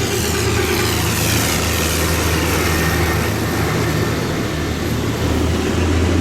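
Tractor engines running steadily as tractors drive past in a procession, a continuous low engine hum.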